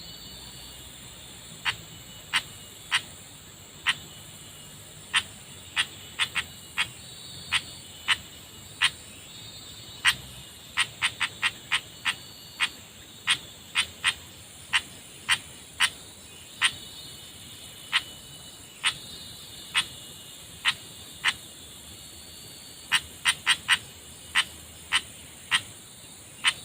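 Short, sharp single-note animal calls repeating irregularly about once a second, with quick runs of several in a row about 11 seconds in and again near the end. Under them is a steady, high insect drone.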